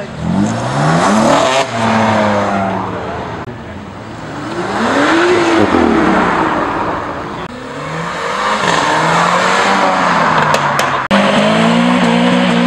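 A performance car's engine revved hard and let fall about four times in a row, each rev a rising then dropping howl. A few sharp exhaust cracks near the end go with the car spitting flames from its exhaust.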